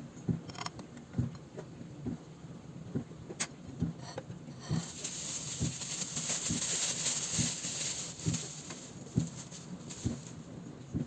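Soft low thumps at an even pace, a little under one a second, with a steady hiss that comes in about five seconds in and fades near the end.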